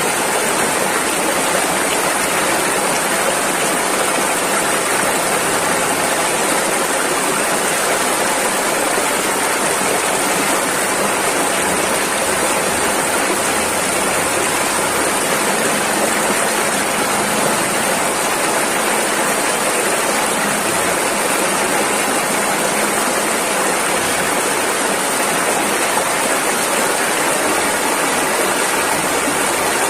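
Rushing river water, a loud, steady rush of flowing rapids with no letup.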